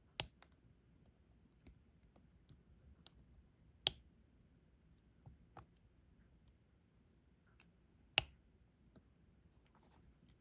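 Diamond-painting pen tapping small resin drills onto the sticky canvas: light, sharp clicks at an irregular pace, two of them louder, about four seconds in and about eight seconds in.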